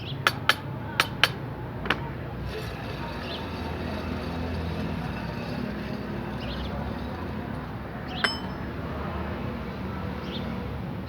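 Sharp metal-on-metal taps on truck rear differential pinion parts being fitted: five quick taps in the first two seconds and one more ringing tap near the end.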